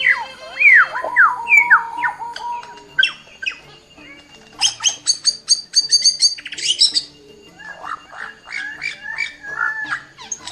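Bird calls: quick falling whistles in the first two seconds, a fast run of harsh squawks about midway, then more chirping, over soft background music.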